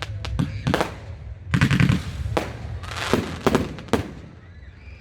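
Fireworks going off: a run of sharp bangs and crackling bursts at irregular spacing, easing off in the last second.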